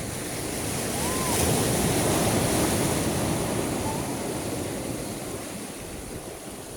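Sea waves: a wash of surf that builds over about two seconds, peaks, then slowly ebbs away.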